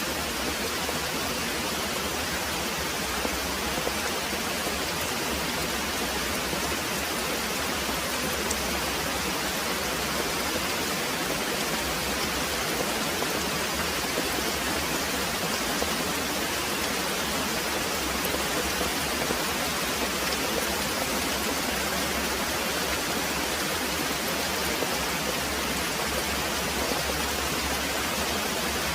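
Very heavy rain pouring steadily, an even hiss with faint scattered drop ticks.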